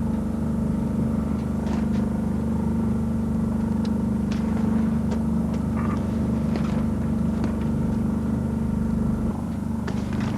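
A steady engine drone, a low hum with even overtones, with scattered light clicks and knocks over it; the drone drops a little in level near the end.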